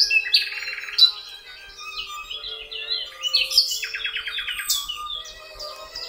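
Birdsong over soft background music: many quick, high chirps, with two rapid trills, one near the start and one about four seconds in, above sustained musical notes.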